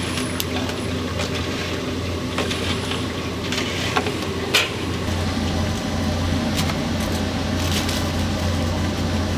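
Steady low hum with scattered sharp clicks and knocks, the loudest about four and a half seconds in.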